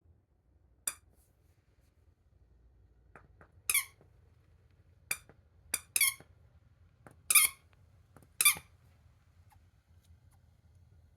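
Squeaky frog toy squeezed by a Maltese dog's bite: about seven short, high-pitched squeaks at irregular intervals, a few coming in quick pairs.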